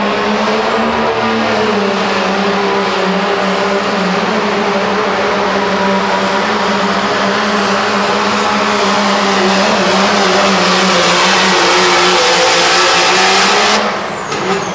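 Turbocharged diesel pickup engine held at full throttle through a sled pull, running at a nearly constant pitch under a high turbo whine that climbs in the first couple of seconds. Near the end the throttle drops off suddenly and the turbo whistle falls away as the pull ends.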